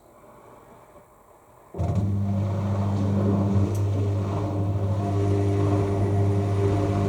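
The washing machine's drain pump starts abruptly about two seconds in and runs with a steady, even hum, pumping out rinse water during the drain stage.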